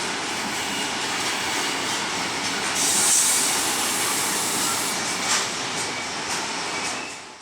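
A train running through a station, with a steady rush of wheels on rails. A high hiss swells about three seconds in and there is a sharp click a couple of seconds later; the sound fades out at the end.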